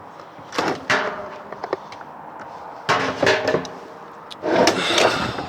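Tumble dryer parts being pulled and handled during a strip-down: a few loud clattering, scraping bursts with a brief ring, about half a second in, around three seconds and loudest near the end.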